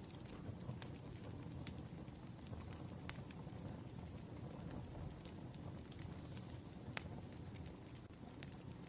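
Wood fire burning with a low steady rumble and irregular sharp crackles and pops from the burning logs.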